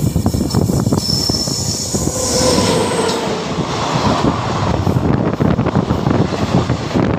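Express train running at speed, heard from an open coach door: wheels rumbling and clicking over the rails with a high wheel squeal. From about two seconds in, a rushing noise builds as a train on the next track passes close alongside in the opposite direction.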